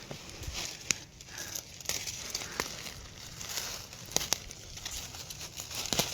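Wild greens (shan mizi shoots) being pulled up by hand: leaves and plants rustling, with a scattered handful of sharp snaps as stems break.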